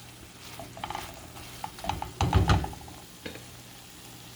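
A utensil scraping and knocking in a frying pan as stir-fried chicken is dished out, over a faint sizzle. Scattered clicks, with the loudest knocks and a dull thud about halfway through.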